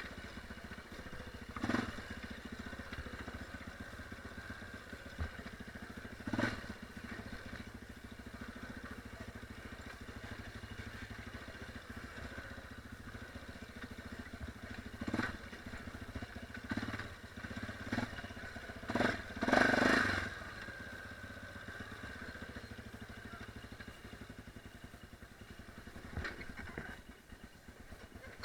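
Dirt bike engine running steadily on an off-road trail ride, with several short loud bursts of noise over it, the loudest about two-thirds of the way through.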